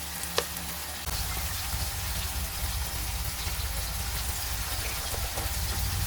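Food sizzling in a frying pan, a steady crackling hiss over a low hum that grows louder about a second in, with one sharp click near the start.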